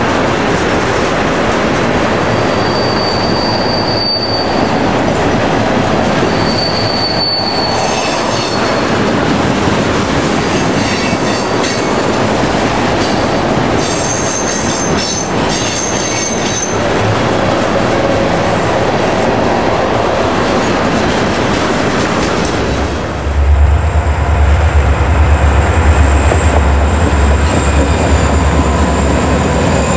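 A long train of tank cars rolling past close by: steady wheel-on-rail rumble and clatter, with brief high wheel squeals a few seconds in and around the middle. About 23 seconds in, a diesel locomotive heading a double-stack container train passes instead, louder, with a deep engine throb and a steady high whine.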